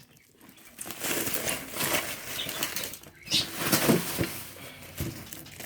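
Packaging rustling and crinkling as it is handled during unboxing, in irregular bursts.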